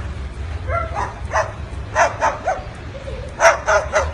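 Short yapping barks, about eight in all, coming in quick groups of two and three.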